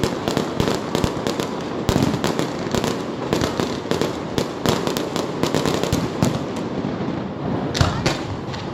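A fireworks display going off: a rapid, dense string of bangs and crackles from shells and comets, several reports a second over a continuous rumble, thinning out near the end.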